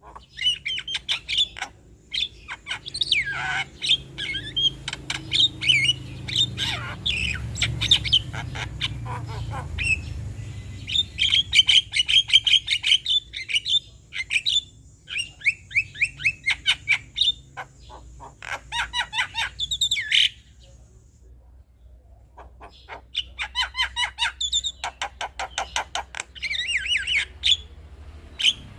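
Male Javan myna's chattering song: rapid runs of harsh chirps, squawks, trills and whistled notes, with a pause of about two seconds after some twenty seconds.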